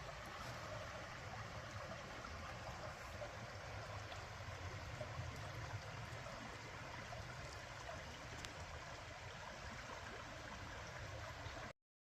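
Faint, steady rushing noise like outdoor ambience or flowing water, with a few faint clicks. It cuts off abruptly to dead silence near the end.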